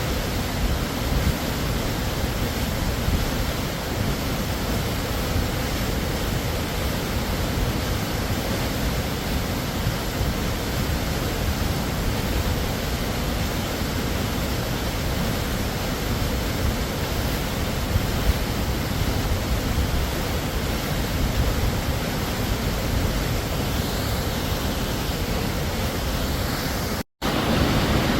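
Waterfall rushing with a steady, even roar of falling water. It cuts out for a split second near the end and comes back slightly louder and deeper.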